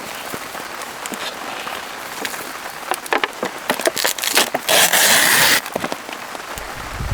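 Rain pattering steadily, with scattered small clicks and knocks of handling and, about five seconds in, a loud burst of hiss lasting about a second.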